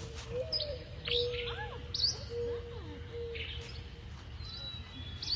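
Wild birds chirping: short, sharp high chirps every second or so, over a faint steady low hum.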